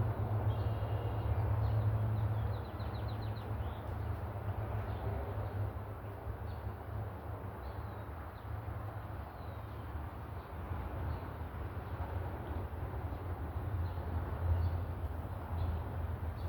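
Steady low hum with faint high chirps of birds here and there.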